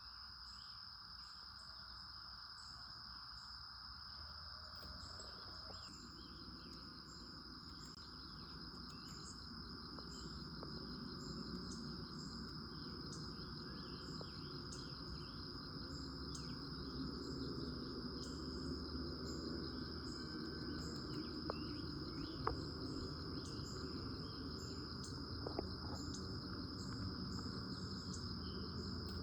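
Continuous high-pitched insect trill, like a cricket chorus, with many short bird chirps and calls scattered through it. A low rumble grows in from about five seconds in and stays under it.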